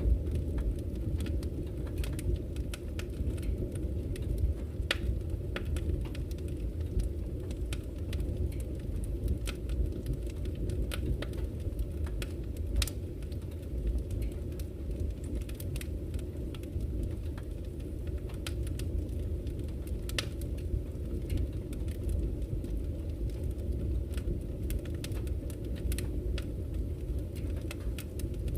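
Campfire crackling with frequent irregular sharp pops over a steady low rush of flowing river water.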